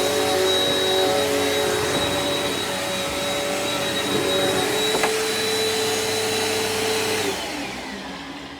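Bissell PowerForce Helix upright vacuum cleaner running with a steady motor whine, then switched off about seven seconds in and winding down with a falling pitch. Its suction is decent but not the best, which the owner puts down to an airflow problem.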